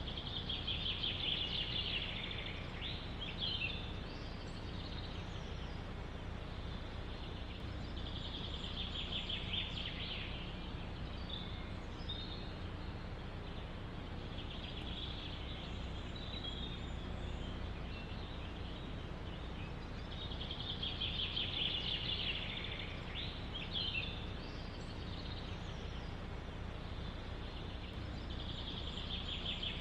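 A songbird singing the same short trilled phrase, ending in a quick flourish, five times at intervals of about six to seven seconds, over a steady low background rumble.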